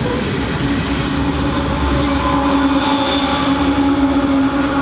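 Freight train rolling past close by, with a low rumble from the wagons. About half a second in, a steady, even hum sets in as the Ferrosur diesel locomotive draws level.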